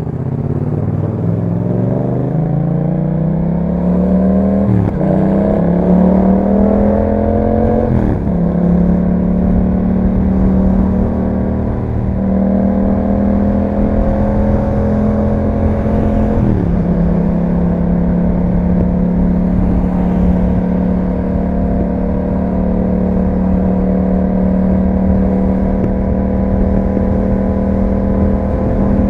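Yamaha MT-07's 689 cc parallel-twin engine through an Akrapovic exhaust, pulling up through the gears under acceleration: the note climbs, breaks briefly at two upshifts about five and eight seconds in, then holds steady at cruise. About two-thirds through it dips once and settles at a slightly lower steady note.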